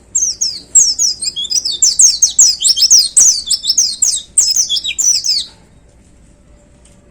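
White-eye (pleci) singing a fast, loud burst of high, rapid downward-sweeping chirps for about five seconds, then stopping abruptly. This is the kind of rapid song burst that keepers call "tembakan".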